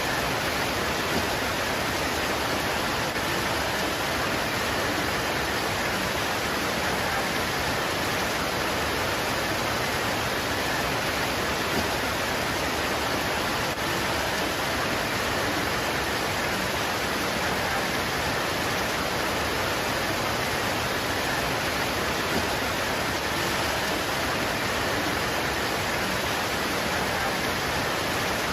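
Steady heavy rain pouring onto foliage, an even unbroken hiss.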